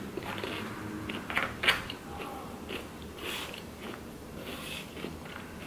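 A person chewing and crunching food close to the microphone, with a couple of sharp clicks of a metal fork against the plastic takeout tray about a second and a half in.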